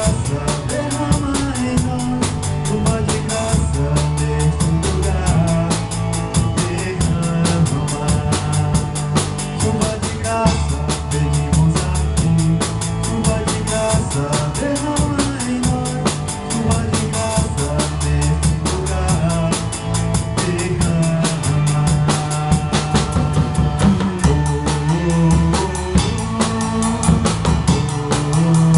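Instrumental band music of a worship song: a drum kit keeps a steady beat with bass drum and snare, under a bass line that moves every few seconds and other instruments.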